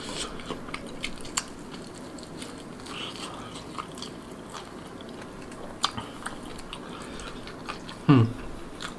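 Chewing and biting on marinated rabbit meat, with many small wet clicks and crackles of mouth sounds and tearing meat. A short hum of the voice falls in pitch about eight seconds in.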